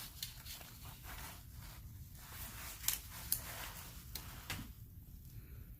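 Faint handling noises: scattered light clicks and rustles as art supplies and paper are moved about.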